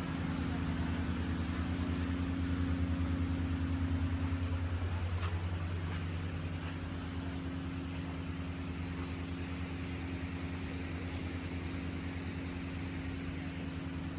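An engine or motor running steadily, a low pulsing hum a little louder in the first few seconds, over a steady hiss.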